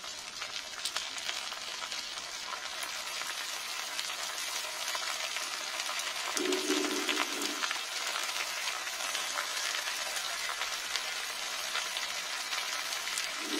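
Capsicum, onion and raw chicken pieces sizzling in hot mustard oil in a kadai, an even hiss with many small crackles as more chicken pieces go into the pan. A brief low hum sounds about halfway through.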